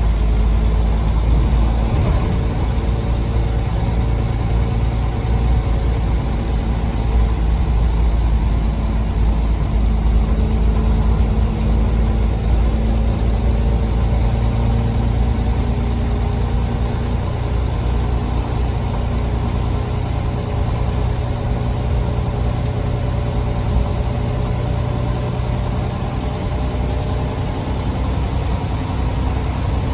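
Scania OmniCity bus's diesel engine running steadily: a deep, even drone with only slight changes in pitch.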